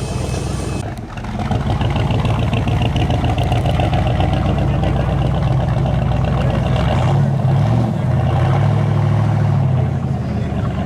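Car engine running with a deep exhaust note, its pitch rising and falling a few times in the second half as the revs change.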